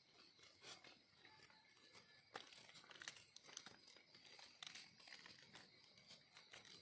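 Faint, irregular crackling and rustling of dry leaf litter, with one sharper snap about two and a half seconds in.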